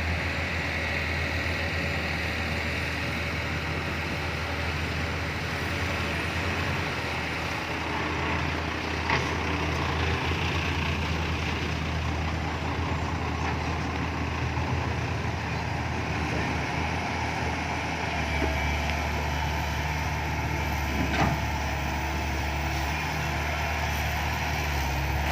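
Six-wheel dump truck's 210-horsepower diesel engine running steadily under load as the loaded truck works up a wet clay slope. About three-quarters of the way through, the engine note shifts and a faint high whine rises.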